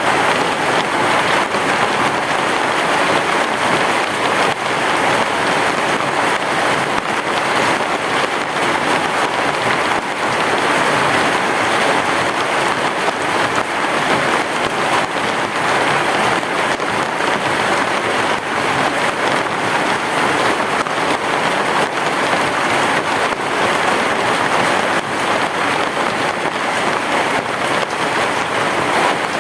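Heavy rain falling steadily on a roof: a dense, even hiss of many drops.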